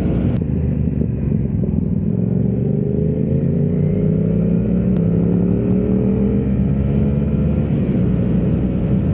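Motorcycle engine running while riding, with road and wind noise; its pitch rises gently over several seconds as it accelerates, then levels off.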